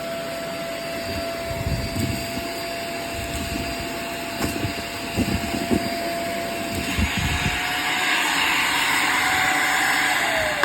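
Hoover React cordless stick vacuum running on its hose, with scattered knocks and rattles of debris being sucked up. About seven seconds in, the airflow grows louder and hissier and the motor's whine rises slightly. Near the end the motor is switched off and its whine falls away.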